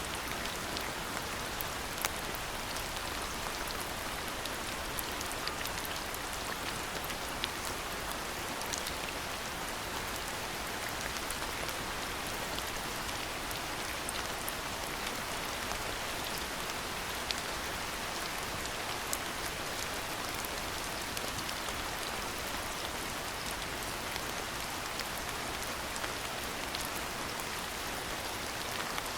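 Steady rain falling, an even hiss with scattered sharp drip ticks from drops hitting nearby surfaces.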